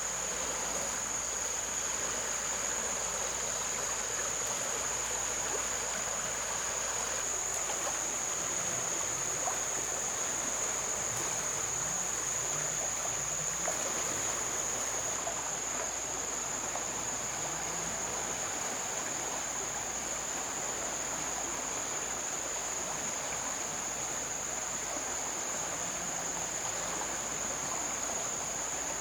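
Flowing river water as an even wash, with a continuous high-pitched insect drone held on one steady tone throughout.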